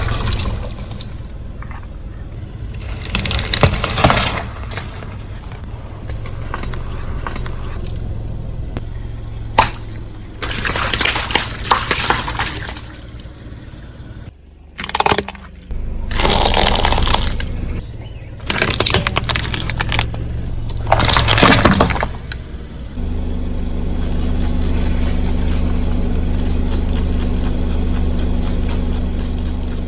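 Car tyre rolling over and crushing brittle objects, in several bouts of loud crunching and cracking, with the car's engine running low underneath. From about two-thirds of the way through, only the engine is heard, running steadily.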